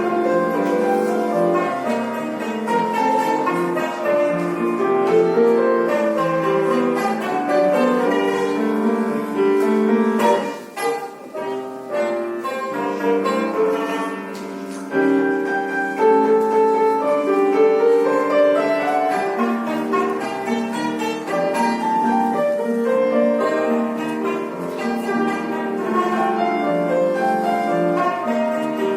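Azerbaijani tar playing a melody with piano accompaniment; the music briefly drops in loudness about ten seconds in.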